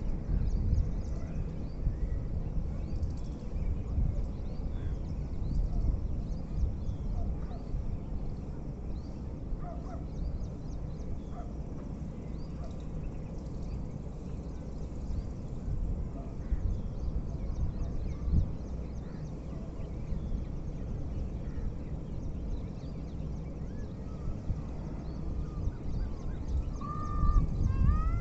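Birds chirping and calling over a steady low rumble, with many short high chirps throughout and a few louder gliding calls near the end.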